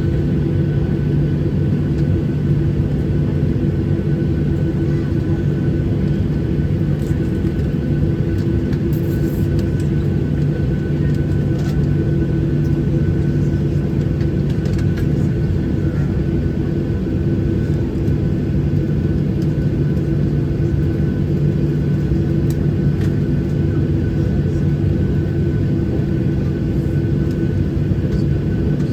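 Steady cabin drone inside a Boeing 737-800 airliner on the ground, a constant low hum with a thin high whine over it.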